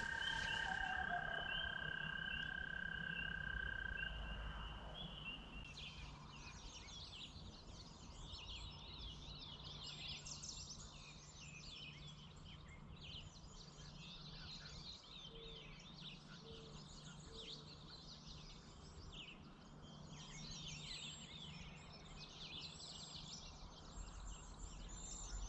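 Many birds singing and chirping together in the early morning, a thick layer of short overlapping calls. In the first few seconds, before the birdsong begins, a faint steady high tone stops.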